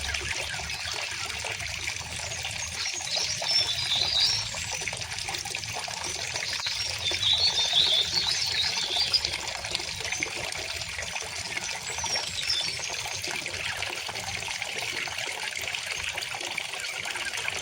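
Steady babble of a gently flowing river, with small birds chirping over it, most clearly around three to four seconds in and again around seven to nine seconds in.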